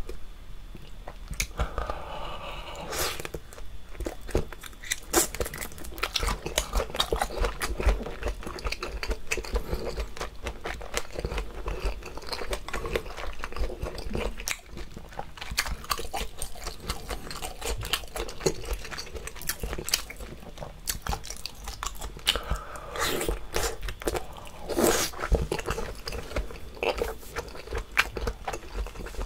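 Close-miked chewing of sauce-coated octopus and other seafood: wet, sticky chews and mouth clicks that keep on without a break. There are louder stretches about two seconds in and again near the end.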